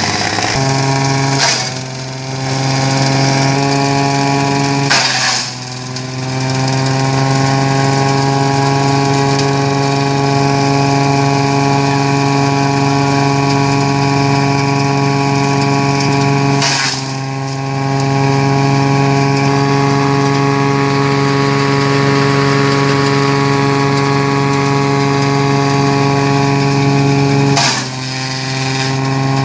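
Tractor-driven coconut leaf shredder running at a steady note, with about four short loud shredding bursts, near the start, around five seconds in, about halfway through and near the end. At each burst the note briefly sags and then recovers, the sign of leaves being fed in and loading the cutter.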